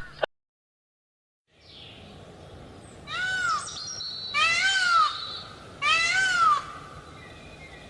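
Kitten meowing three times: short, high calls that rise and fall in pitch, over a steady background hiss.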